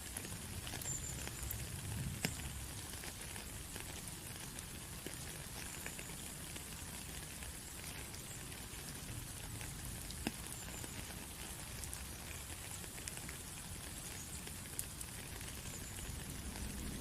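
Steady rain falling, a constant patter with a few separate drops tapping sharply now and then.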